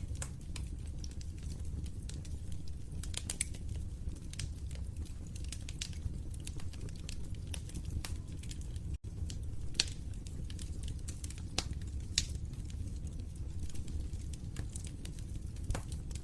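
Fireplace fire crackling: irregular sharp pops and snaps over a steady low rumble. The sound cuts out for an instant about halfway through.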